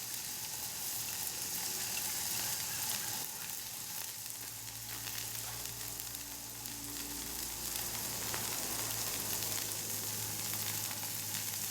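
Hamburger patty frying in a camp pan over a wood-gas pellet stove: a steady sizzle with fine crackling.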